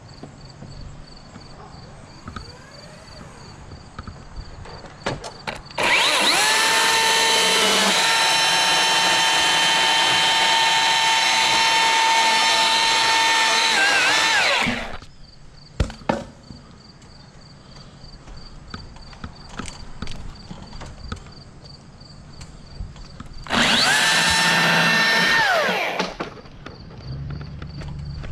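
Milwaukee battery chainsaw revving up and cutting through dead wood, with a steady electric whine that falls away as it stops: one long cut of about nine seconds, then a short burst of about two and a half seconds.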